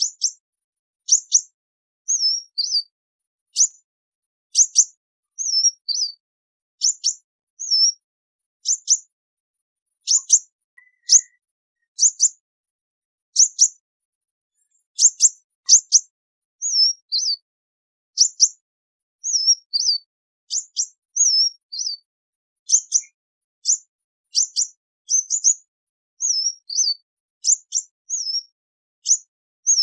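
Sunbird flock-calling: a steady run of short, high, thin calls, about one or two a second. Sharp chips alternate with brief wavering twitters.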